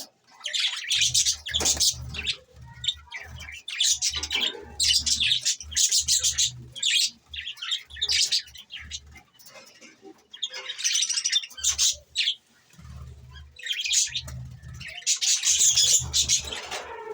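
Budgerigars chattering and chirping in quick, broken bursts with brief pauses between.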